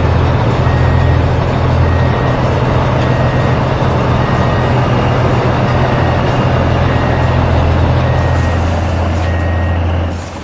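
Heavy construction vehicle's diesel engine running steadily with a low rumble while its reversing alarm beeps at an even pace, about one short high beep a second; the engine and beeping stop near the end.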